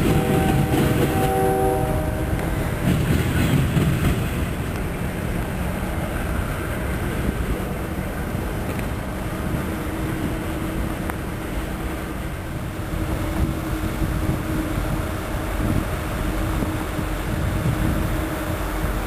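A diesel locomotive horn sounds a held chord for the first two and a half seconds or so, over the rumble of a freight train's cars rolling by. After that a steady low rumble of trains and diesel engines continues.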